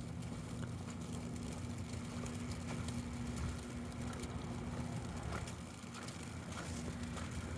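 A steady low rumble with a constant hum, as of a motor vehicle's engine, together with faint scattered ticks; the hum drops out for about a second near the end.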